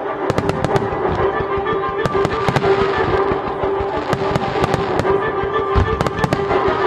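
Fireworks display: rapid sharp bangs from bursting aerial shells and volleys of rising comets come in clusters of several every second or two, over music with long held notes.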